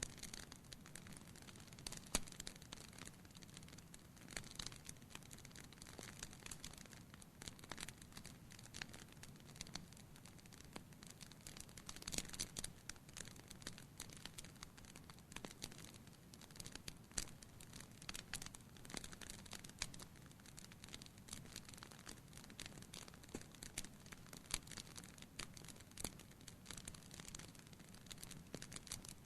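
Wood fire crackling in a fireplace, faint, with irregular pops and snaps over a low hiss.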